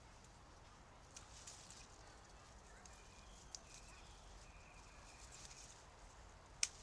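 Quiet woodland ambience: a faint steady hiss with a few soft clicks and crackles, a sharper click near the end, and a faint thin steady tone in the middle.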